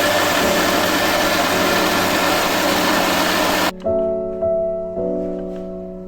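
A loud steady whirring noise that cuts off suddenly about four seconds in, over background piano music.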